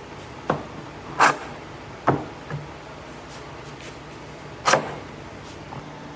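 Five sharp knocks at irregular intervals, the second and last the loudest, over a faint steady hum.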